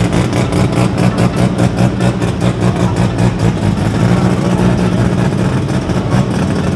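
Car engine idling, with an even pulsing beat about five times a second that fades near the end.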